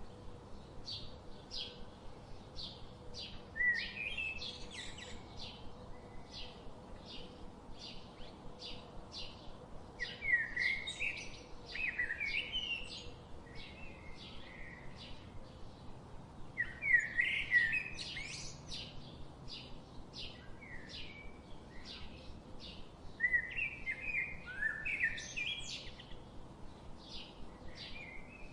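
Birds chirping: a steady run of short high chirps, about two a second. Louder warbling songs with quick rising and falling notes break in four times.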